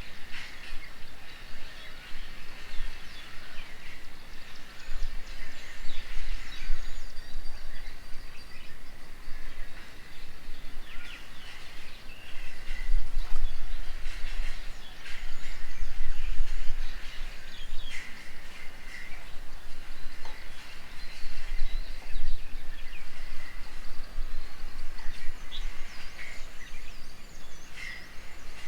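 Several birds chirping and calling around a garden bird table, many short overlapping calls and trills. A low rumble underneath swells and fades, loudest midway.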